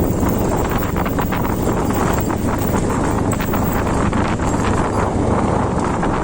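Motorcycle engine running steadily while riding a rough dirt track, with wind buffeting the microphone and scattered clicks and rattles throughout.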